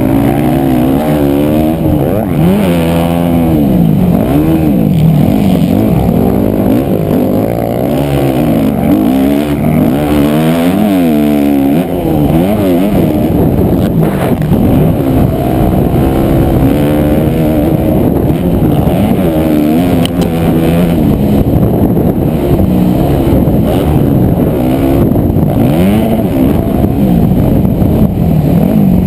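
Motocross bike engine, loud and close, revving up and falling back over and over as the throttle is opened and shut and the gears are worked.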